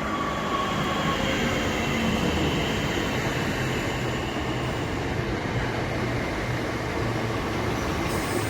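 Southeastern Class 465 Networker electric multiple unit pulling into the station, its traction motor whine slowly falling in pitch as it slows, over the steady rolling noise of its wheels on the rails.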